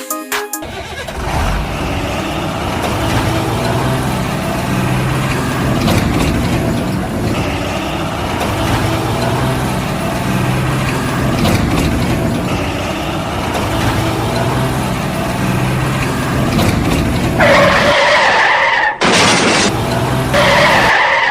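Vehicle engine sound running steadily with a low, wavering pitch, then two loud harsh blasts near the end.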